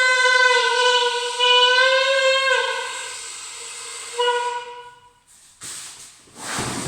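Saxophone holding one long note for about two and a half seconds, which sags slightly in pitch at its end, then a short second note on the same pitch about four seconds in. Near the end come bursts of breathy, airy noise.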